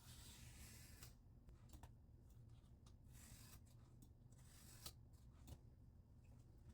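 Faint rubbing strokes of a wet 400-grit vitrified diamond whetstone drawn along a scissor blade held in a guided sharpener, with a few light clicks over a low steady hum.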